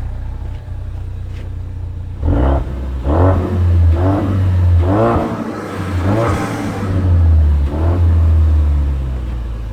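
Rolls-Royce Ghost's twin-turbo V12 running after a cold start, first at a steady idle, then from about two seconds in with a series of rises and falls in engine speed. The owner suspects coolant is leaking into the engine and being burnt off.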